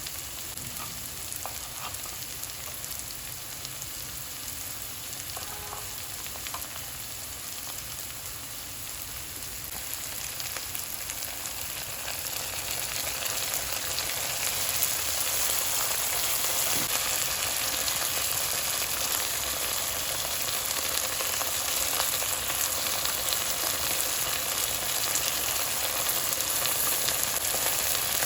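Food frying in hot oil in a pan, sizzling steadily; the sizzle grows louder about halfway through.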